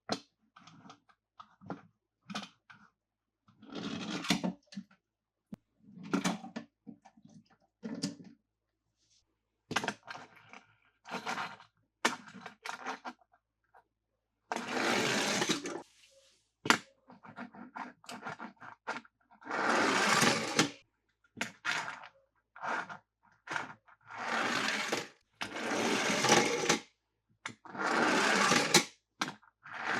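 Toy cars and their plastic packaging handled: sharp plastic clicks and cracks, then, from about halfway, a run of scraping sounds about a second long each, with short gaps between them.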